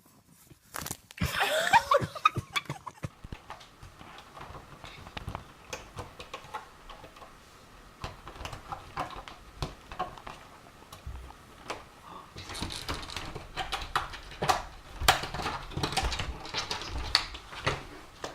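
A short animal cry that rises and falls about a second in, then scattered taps and knocks that run on.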